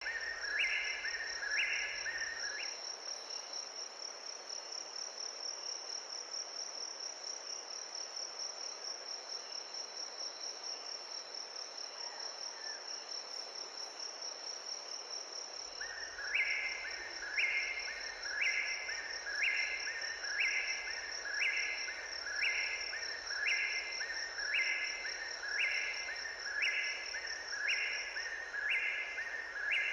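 Night insect chorus in tropical forest: a continuous high, shrill cricket-like trill. A second caller joins in a repeated two-part chirp about once a second, briefly at the start and again steadily from about halfway through.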